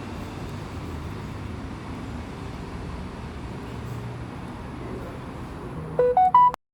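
Steady low background rumble, then near the end a short electronic chime of three quick rising notes, after which the sound cuts out abruptly.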